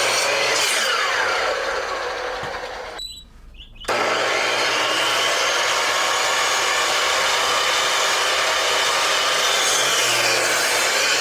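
Miter saw running and cutting boards: a steady motor whine with the blade going through wood, dying away briefly about three seconds in, then starting again abruptly and running on.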